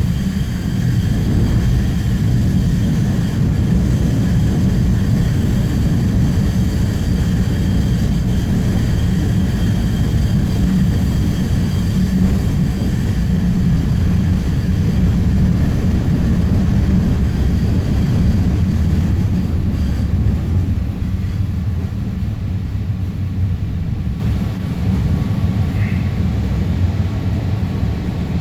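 Alstom Citadis Spirit light-rail train of Ottawa's O-Train Line 1 running between stations, heard from inside the car: a steady low rumble with faint steady high tones over it.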